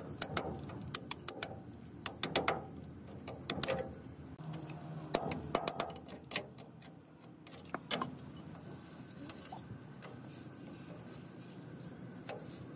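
Sharp metallic clicks and clinks in irregular clusters, like hand tools handled against metal gearbox parts, busy for about the first eight seconds and then only an occasional tick.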